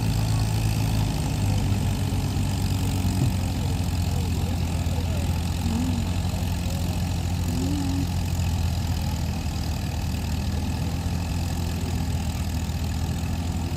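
1949 Farmall H tractor's four-cylinder engine running at a steady speed, its pitch holding level.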